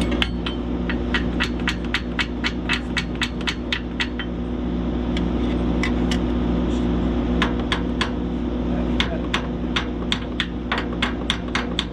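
Hammer striking metal over and over, about three blows a second in runs broken by short pauses, over the steady running of an idling engine.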